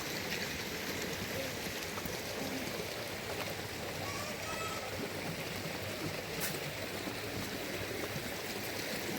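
Steady rushing of running water, an even unbroken noise.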